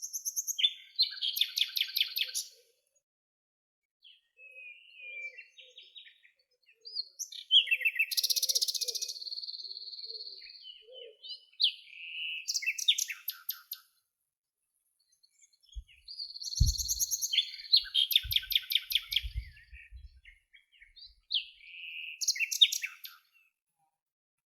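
Songbird singing: repeated song phrases of a few seconds each, with rapid trills and short whistled notes, separated by pauses. A few faint low thuds come about two-thirds of the way through.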